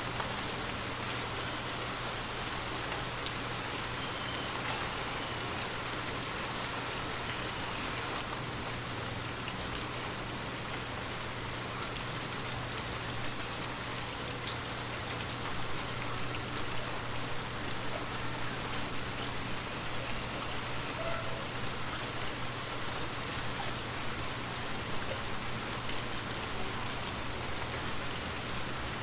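Steady rain falling, the drops pattering on a surface, with a few single drop clicks standing out.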